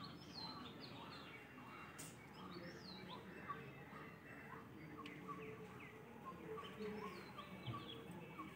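Faint birdsong: many small birds chirping, with quick repeated short downward chirps throughout, over a low steady outdoor background noise.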